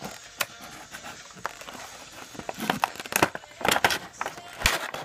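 Packaging of a small die-cast model being handled and opened: scattered clicks and short rustles of cardboard and plastic, getting busier and louder about halfway through.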